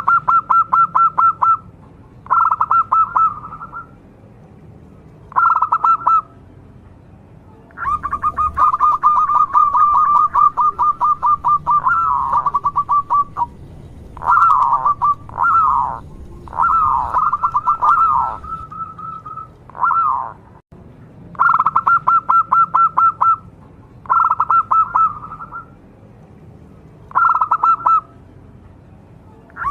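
Zebra dove (perkutut) cooing: repeated phrases of fast staccato notes, each a second or two long, with short pauses between them. The phrases run together more densely from about 8 to 20 s.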